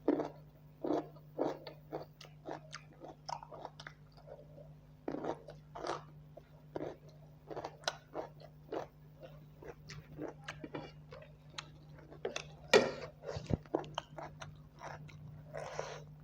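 Close-up mouth sounds of a person chewing and biting buffalo meat curry with rice: irregular short, wet clicks and smacks several times a second, with one sharper, louder bite about 13 seconds in.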